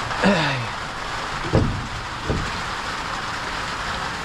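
Steady hiss of light rain. Near the start there is a short, low call that falls in pitch, followed by two dull knocks a second or so apart.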